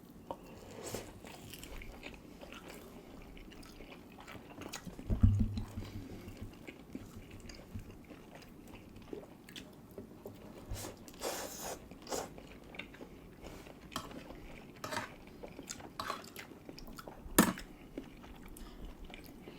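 People chewing and biting into food, with scattered small clicks and knocks. There is a loud dull thump about five seconds in and a sharp knock near the end.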